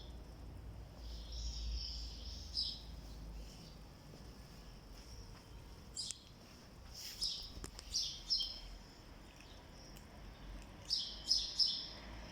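Small birds chirping: short, high chirps in scattered clusters, busiest about six to eight seconds in and again near the end.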